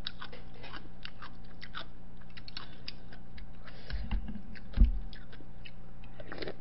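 Close-miked chewing and wet mouth clicks from a person eating, with a dull low thump about two-thirds of the way through.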